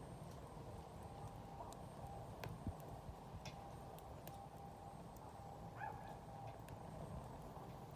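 Wood campfire burning: a low steady rumble with scattered, irregular sharp crackles and pops.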